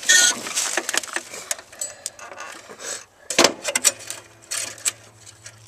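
Irregular clicking and rattling handling noises, with one sharp knock about three and a half seconds in.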